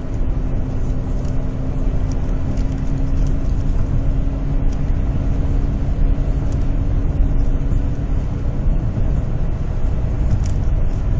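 A 2004 Honda Accord driving, with steady road rumble and a steady hum from the front of the car that fades about eight seconds in. The owner suspects a bad front wheel bearing or bad tyres.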